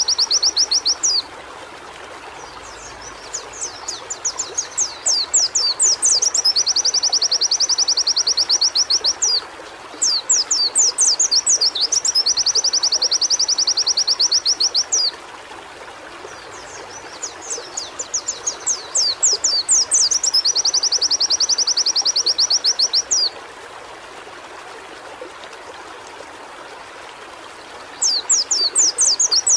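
White-eye (pleci) singing in long bouts of fast, evenly repeated high trilling notes, each bout a few seconds long, with pauses of a second or more between them. A steady hiss fills the gaps.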